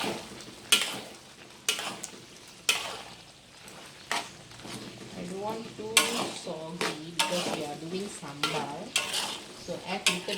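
Spoon or spatula stirring fried vegetarian chicken into a simmering pot of sambal, scraping and knocking against the pot about once a second over a steady sizzle.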